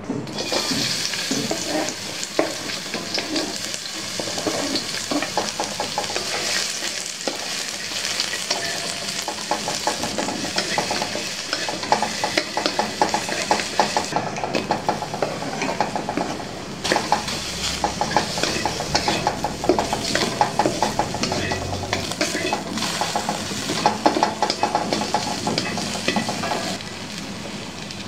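Sliced shallots and garlic sizzling in hot oil in a stainless steel wok, the sizzle starting abruptly as they go in. A spatula scrapes and stirs them against the metal, making many short clicks over the steady hiss.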